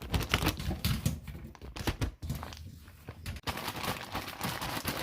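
Plastic ziploc bag crinkling and rustling in irregular bursts as cut yam pieces are packed into it, quieter for a moment in the middle.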